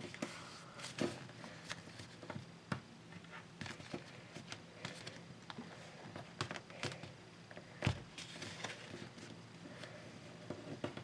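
A sheet of paper being folded and creased by hand: soft rustling with scattered small clicks and taps, the loudest one about eight seconds in.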